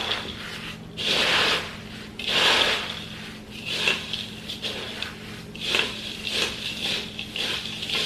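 Graham crackers being crushed: repeated rubbing and scraping strokes, roughly one a second, with a faint steady hum underneath.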